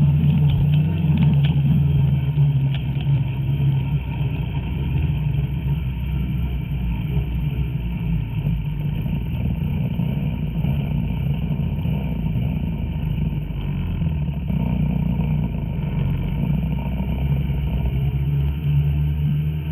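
Two-stroke snowmobile engine running steadily under throttle, with a few short clicks in the first couple of seconds.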